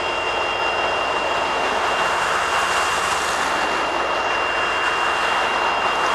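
A coal train's hopper cars rolling by, giving a steady, even rumble of wheels on rail, with a thin steady high-pitched tone over it.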